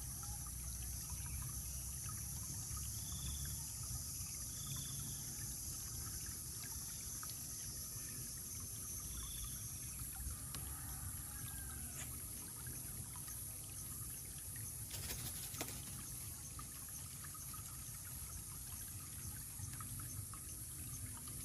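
Faint outdoor ambience: a steady high-pitched hiss over a low rumble, with a few brief faint high chirps in the first half and a short crackle about two-thirds through.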